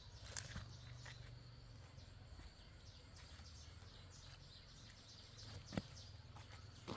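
Faint outdoor ambience with a few light, sharp taps; the loudest tap comes near the end.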